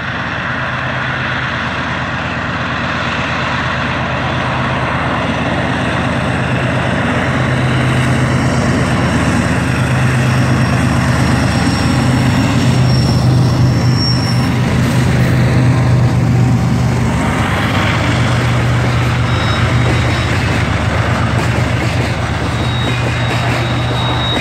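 Train hauled by TE33AC diesel-electric locomotives passing close, with a deep, steady diesel engine drone over rumbling wheel and rail noise. It grows louder toward the middle and eases a little after, with faint high squeals about halfway through and near the end.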